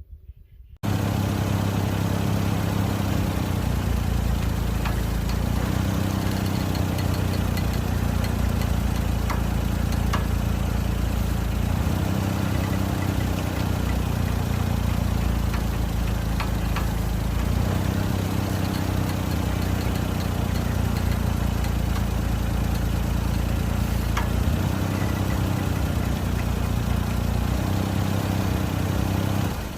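Suzuki Jimny engine idling close by, a steady low drone that swells and eases about every six seconds; it is running so the power-steering system is under pressure while a fluid leak is traced. It starts suddenly about a second in and stops near the end.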